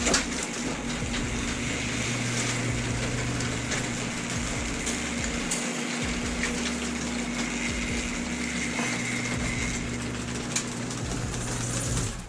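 A machine running steadily with an even hum and a rushing noise, starting and stopping abruptly.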